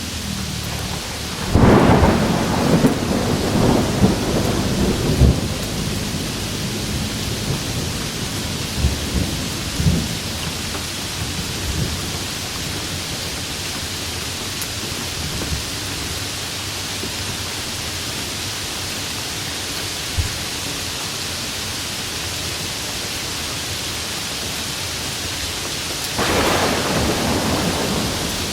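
Steady rain with thunder: a loud clap about a second and a half in that rumbles on for a few seconds, a few smaller cracks, and another roll of thunder near the end.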